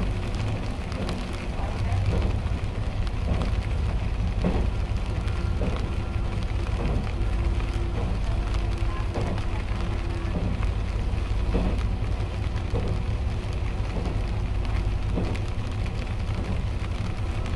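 Diesel railcar running along the track, heard from inside: a steady low rumble of engine and wheels on rail with a hiss over it, an on-and-off steady tone, and faint soft ticks about once a second.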